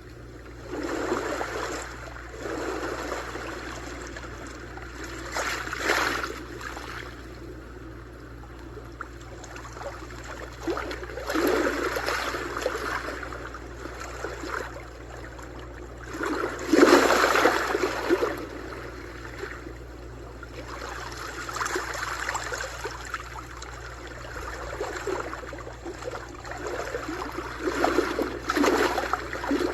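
Sea waves breaking and washing on the shore, the sound swelling and falling back roughly every five seconds; the biggest wave breaks about halfway through.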